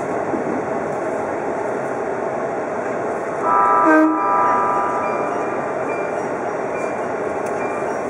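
Odakyu Romancecar VSE (50000 series) running at speed, a steady rumble of wheels on rail, with one short train horn blast about halfway through.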